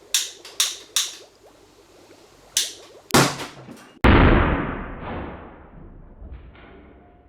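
Several sharp clicks of a lighter being sparked, then a short burst of noise and, about four seconds in, a loud bang as the acetylene gas inside a carved pumpkin ignites, fading away over a couple of seconds.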